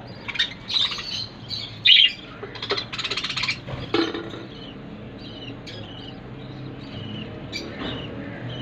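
Budgerigars chirping and chattering. Several loud, sharp calls come in the first four seconds, including a rapid buzzy trill about three seconds in, followed by softer chirps.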